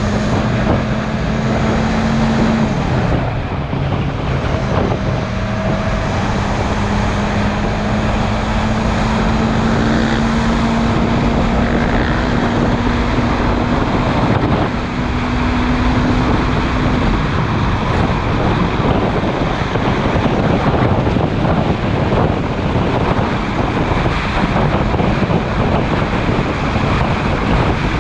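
Motorcycle engine running at cruising speed under heavy wind noise on the microphone. The engine note holds steady and slowly rises, then sinks under the wind about two-thirds of the way in.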